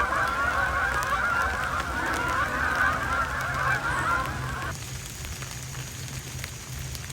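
A flock of large birds calling together in a dense, overlapping chorus that cuts off abruptly about four and a half seconds in.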